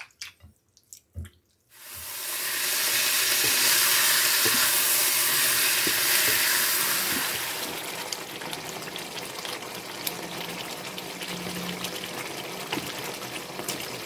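Food sizzling in hot oil in a pan: a loud, even sizzle starts about two seconds in, then after several seconds drops to a quieter sizzle with many small crackles.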